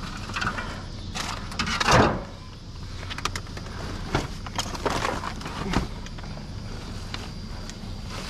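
Rummaging through a trash pile for scrap metal: scattered knocks, clunks and rustles, the loudest about two seconds in, over a steady low rumble.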